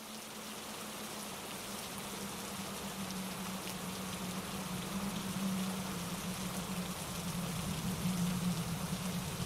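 Steady rain pattering with a mountain stream rushing over granite rocks underneath, its low rush steady, the whole growing slowly louder as it fades in.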